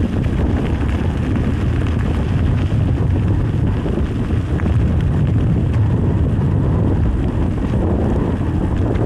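Wind buffeting the microphone while riding along on an electric mountain bike: a steady, loud low rumble of wind noise.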